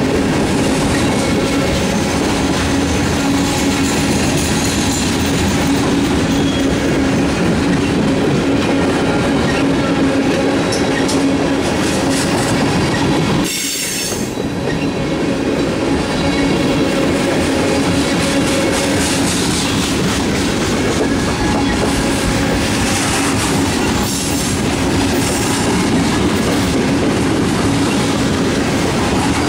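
Freight cars of a CSX mixed manifest train (gondolas, covered hoppers, tank cars) rolling past close by: a steady rumble of steel wheels on the rails with a constant humming tone and some wheel squeal, easing briefly about halfway through.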